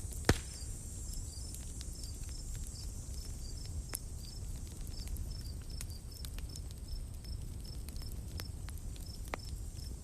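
Campfire crackling with sharp pops, a loud one just after the start, over insects chirping in a steady rhythm and a low rumbling background.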